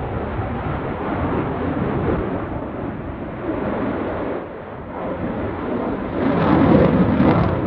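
Jet noise from an F-22 Raptor's two Pratt & Whitney F119 turbofans, a steady rumble. It dips about four and a half seconds in and swells loudest near the end.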